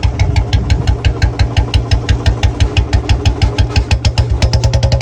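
Royal Enfield Bullet 350's single-cylinder engine idling, its exhaust beats coming in an even, steady rhythm. After about four seconds the beats quicken a little and a mid-pitched hum joins them.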